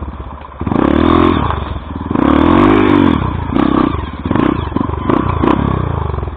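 Dirt bike engine revving hard in repeated bursts of throttle: one surge about a second in, a longer rise and fall of revs about two to three seconds in, then a run of short quick blips.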